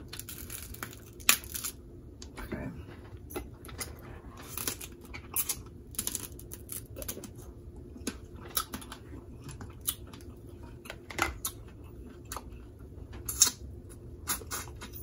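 Irregular short cracks, crinkles and clicks of snow crab legs being broken open and picked apart by hand.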